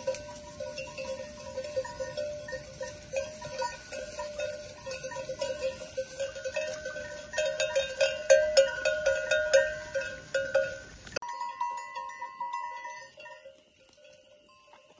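Bells worn by a flock of sheep clanking and ringing irregularly as the animals move. About eleven seconds in the sound cuts abruptly to fainter, sparser bell ringing.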